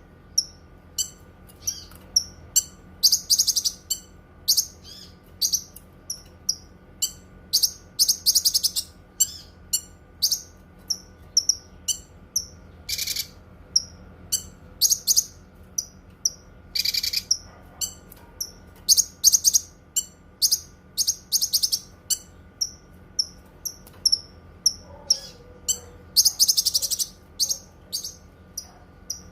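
Cucak kinoi songbird singing: a string of short, sharp high chirps, about one or two a second, broken by several longer ringing trilled phrases.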